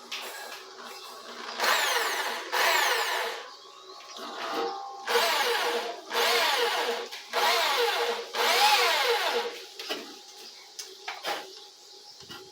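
Electric power drill running in several short bursts, its motor whine rising and falling in pitch with each squeeze of the trigger.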